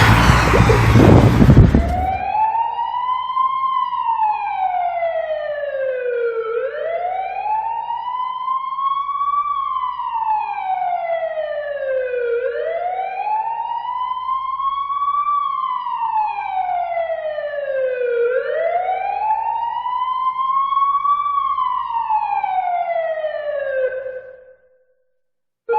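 Emergency-vehicle siren sounding a slow wail: the pitch rises for about three seconds and falls for about three, four times over, then cuts off near the end. The first two seconds hold the tail of a louder, noisier, higher-pitched siren.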